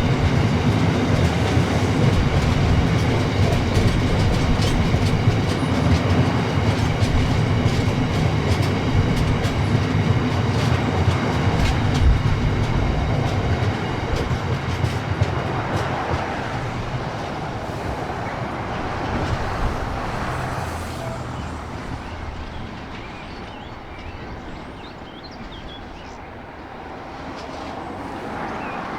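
A train passing close by, its wheels clicking steadily over the rail joints under a heavy rumble, then fading away over the last half as it recedes.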